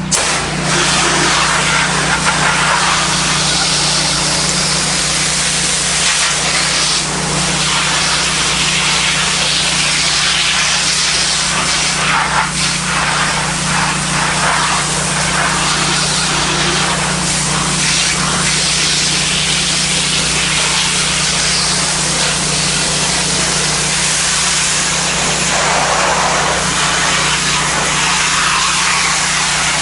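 Pressure washer spraying water through its low-pressure black tip: a loud, steady hiss over a steady low hum. It sounds much harsher than the actual pressure.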